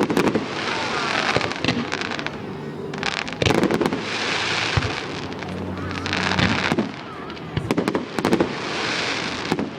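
Aerial fireworks bursting: a string of sharp bangs, several close together near the end, with spells of crackling hiss between them.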